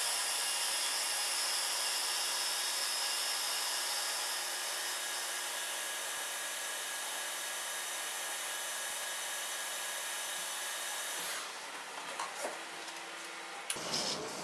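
Miyano BNE-51SY CNC lathe machining, a steady hissing noise that drops off about eleven seconds in, followed by a few clicks and knocks.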